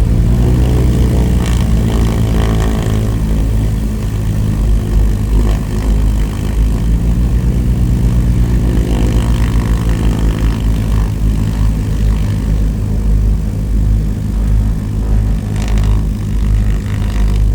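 Propeller aircraft engine running loud and steady, its pitch rising over the first few seconds as the power comes up.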